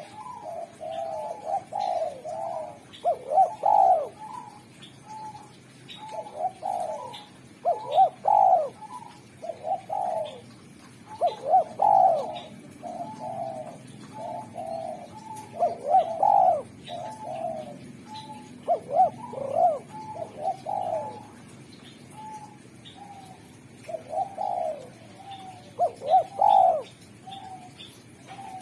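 Spotted dove cooing over and over, its call phrases repeating every few seconds, each one a short run of soft hooting notes.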